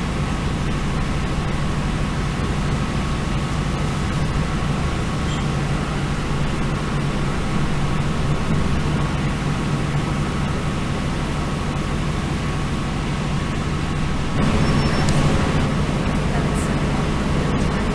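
Northern Ireland Railways diesel multiple unit running at speed, heard from inside the carriage: a steady engine drone and rumble of wheels on rail. About two-thirds of the way through, the rumble gets louder and a few light clicks come through.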